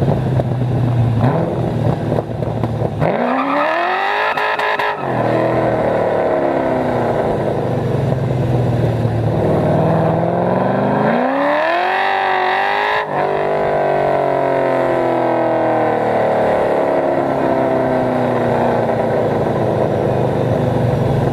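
Cammed LS1 5.7-litre V8 of an HSV VY Clubsport R8, through long-tube headers and an X-pipe exhaust, pulling hard twice. The revs climb steeply about three seconds in and again about ten seconds in, each time cut off abruptly, and then the engine note winds slowly down, settling back to a low rumble near the end.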